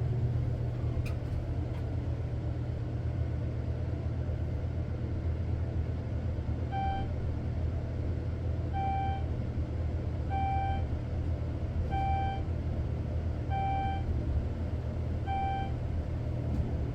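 Elevator car running upward with a steady low hum. From about seven seconds in, a short single-pitched beep sounds about every second and a half to two seconds, seven times in all, as the car passes each floor on its way up.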